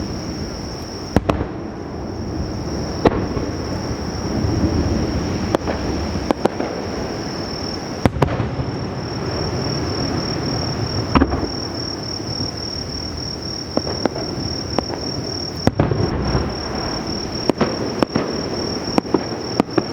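Sea-surface self-bursting firework shells (kaijō jibaku) exploding over the water: a run of sharp booms, a dozen or so standing out, over a continuous rolling rumble of echoing bursts.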